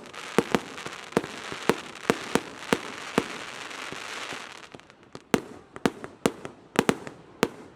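Fireworks going off: a rapid, irregular string of sharp bangs, with a dense hiss over the first half that dies away about four and a half seconds in.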